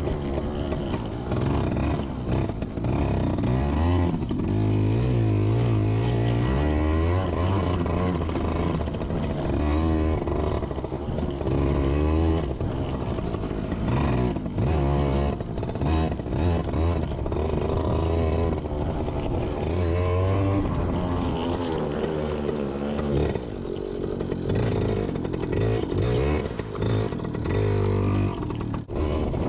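Yamaha PW80 dirt bike's small two-stroke single-cylinder engine running under way, its pitch rising and falling again and again as the throttle is worked.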